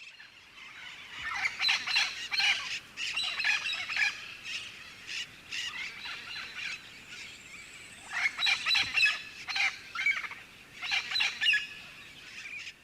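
Birds calling in three bursts of rapid, chattering calls a few seconds apart, with a quieter stretch in the middle.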